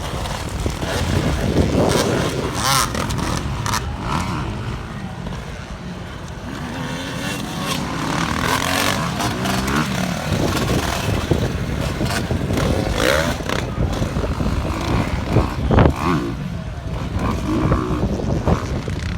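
Motocross dirt bike engines on a track, revving up and falling back again and again as riders accelerate and shift through the laps.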